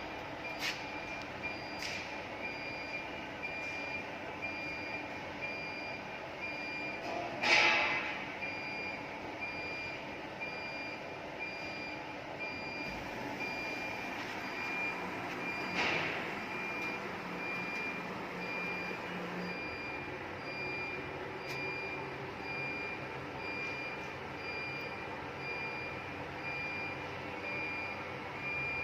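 An electronic warning beeper sounding one high beep over and over at an even pace, over a steady background hum. A short loud burst of noise comes about seven and a half seconds in, and a smaller one near the middle.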